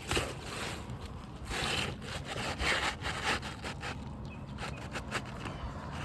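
Asphalt roof shingle being worked loose for removal: a series of irregular rasping scrapes of the gritty shingle against the roof and tool.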